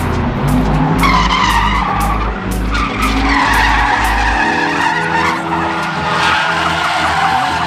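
A drift car sliding: tyres squealing in long, wavering screeches over a revving engine. The deep engine note drops away about halfway through while the tyre squeal carries on.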